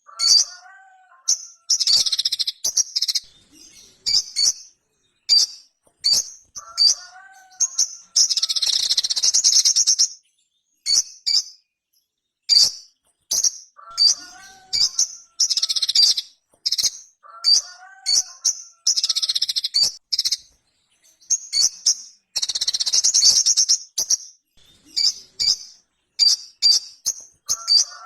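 Sogok ontong (sogon), a small nectar-eating sunbird, singing in runs of short, sharp, high chirps. Dense twittering stretches come about 8 and 22 seconds in.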